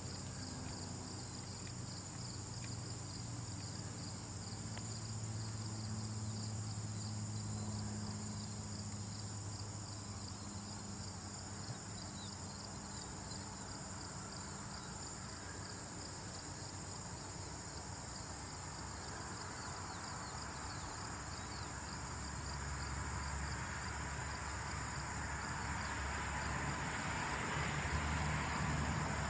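Insect ambience sold as the sound of ants building a colony: a steady, high insect chirring over a low hum, with a rustling hiss that builds in the last several seconds.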